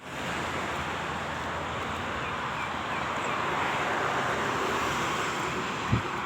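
Steady rain falling, an even hiss, with a short low thump near the end.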